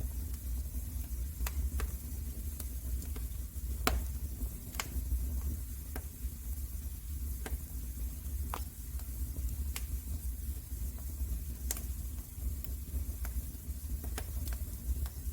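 Wood fire burning in a fireplace: scattered sharp crackles and pops over a steady low rumble of the flames, with a few louder pops.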